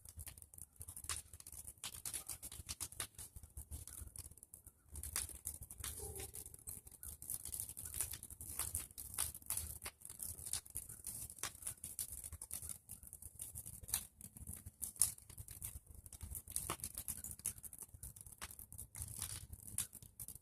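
Bonfire of pruned tree branches crackling, with irregular sharp pops over a low rumble.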